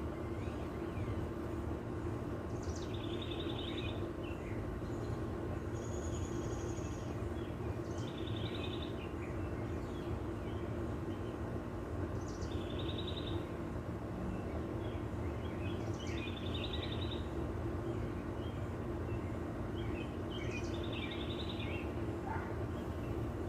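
Birds calling, one repeating a short trilled phrase about every four seconds, with a few other brief chirps between, over a steady low background hum.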